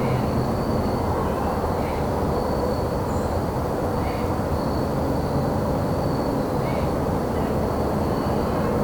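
Crickets chirping in a steady high trill, with short bird chirps every couple of seconds, over a loud, steady low rumble of distant traffic.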